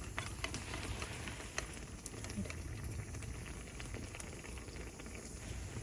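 Sukiyaki simmering in an iron frying pan: a steady bubbling with many scattered small pops and crackles.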